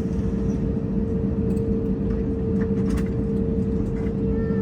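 Steady cabin noise inside an Airbus A321neo with its engines running: a low rumble with a constant hum through it.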